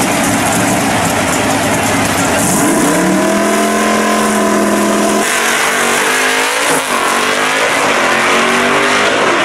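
Two first-generation Chevrolet Camaro drag cars running loud on the start line, then launching about two and a half seconds in. The engine note climbs as they accelerate away, drops at a gear change about five seconds in, and climbs again.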